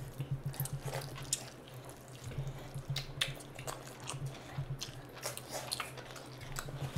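Close-up wet chewing and mouth smacking of people eating meat curry and rice by hand, with many short sticky clicks scattered throughout.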